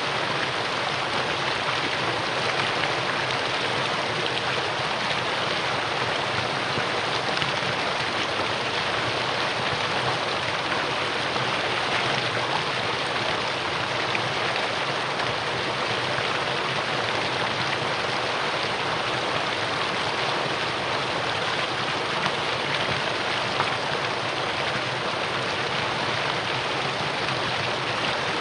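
Mountain valley stream rushing over rocks, a steady unbroken hiss of flowing water.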